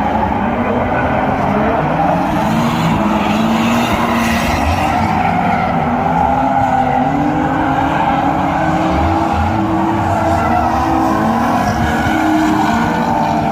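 Drift cars sliding at speed: engines held at high revs, their pitch wavering up and down, with tires squealing.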